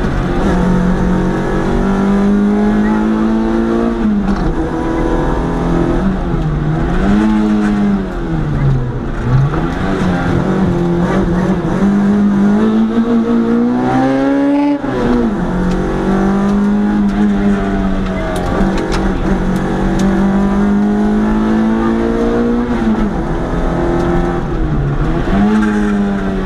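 Historic rally car's engine heard from inside the cabin, pulling hard up a hill climb. The revs hold high, then fall away and climb again several times as the car brakes and changes gear for the bends, with one sharp drop about fifteen seconds in.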